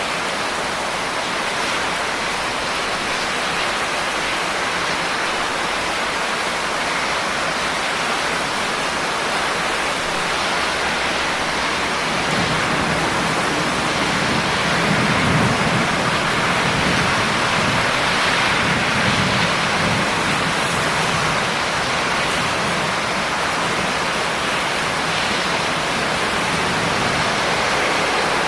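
Steady heavy rain falling, an even hiss, with a low rumble that swells and fades around the middle.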